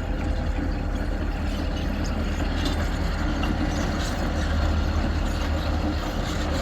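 Diesel locomotives running light on the ELS line, their engines a steady low rumble as they approach.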